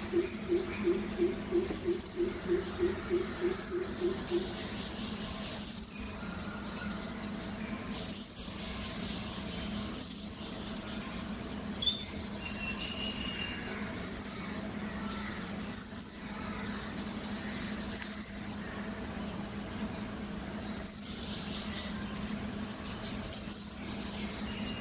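A bird repeating a short, high call about every two seconds, each note flicking sharply upward at its end, about a dozen calls in all.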